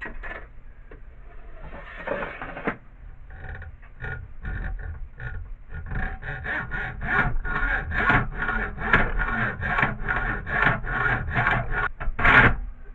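Aluminum strip being cut by hand with a saw: scattered scrapes at first, then a steady run of quick back-and-forth strokes, about three a second, with a louder stroke near the end.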